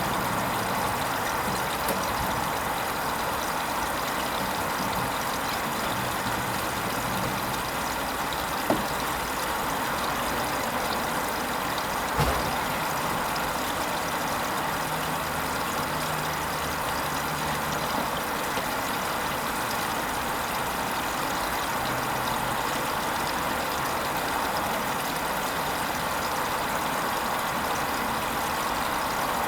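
Hoover Vision HVP16 washing machine running a silks wash cycle with a steady motor hum, a sharp click about nine seconds in and a dull knock about twelve seconds in.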